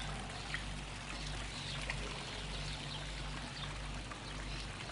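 Water pouring and trickling steadily through the rings of a water-vortex installation, with a couple of faint ticks.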